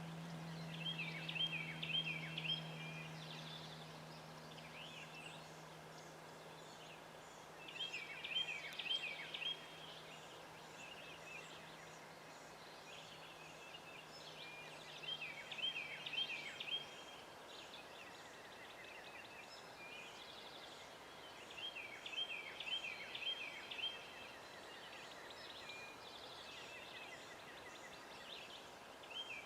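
A bird calling in short bursts of rapidly repeated notes, about a second and a half each, roughly every seven seconds. A steady low hum underneath stops about halfway through.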